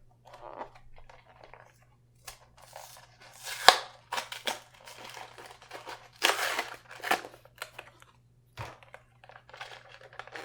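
Diecast toy car's blister package being opened by hand, the card tearing and the plastic crinkling in irregular rustles. There is a sharp crackle about three and a half seconds in and a louder stretch around six to seven seconds.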